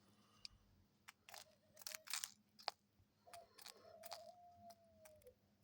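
Quiet, irregular clicks and crunches of a pet dove pecking at its seed, with a faint held tone in between that sags slightly in pitch near the end.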